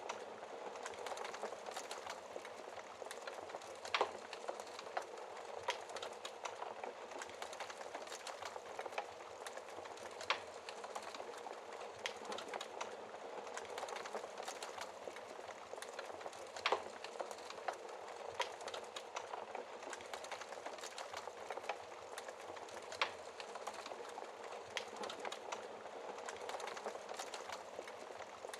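Wood fire crackling steadily, with scattered louder pops and snaps every few seconds.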